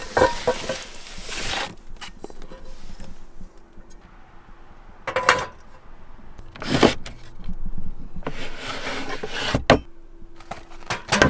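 Handling noises: a few separate knocks and rubbing sounds, spaced a second or more apart, over a faint steady hum.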